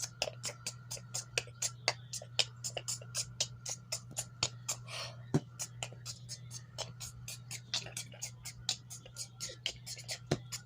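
Beatboxing made of quick, sharp mouth clicks, about four or five a second, over a steady low hum.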